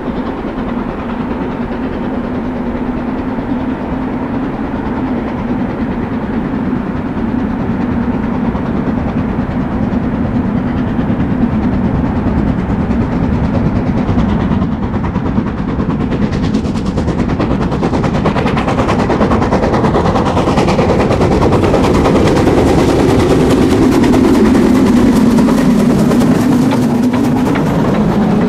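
Metre-gauge train running on the line, a steady rumble with rail clatter that grows gradually louder, the clatter becoming dense and rapid from about halfway through.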